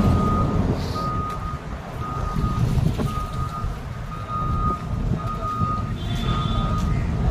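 An electronic beeper sounding a single steady tone about once a second, each beep about half a second long, over a low engine and road rumble.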